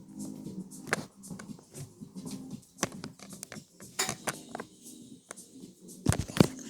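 Irregular sharp clicks and knocks in a small room, with a louder cluster of knocks near the end, over a faint steady low hum.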